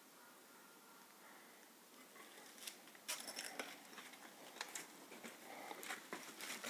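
Faint crunching, rustling and clicking of debris, a quick irregular string of sharp crackles starting about two and a half seconds in.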